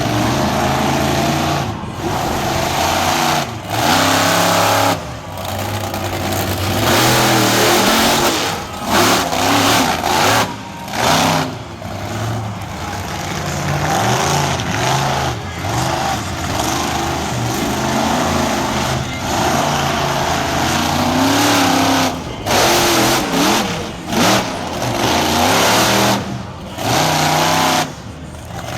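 Monster truck engine revving hard during a freestyle run, its pitch climbing and falling as the throttle is worked, with the sound cutting off briefly again and again.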